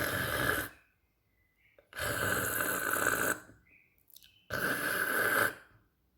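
A woman voicing the sound of the Portuguese letter R three times: a long, rasping "rrr" from the throat, about a second each, like paper being torn.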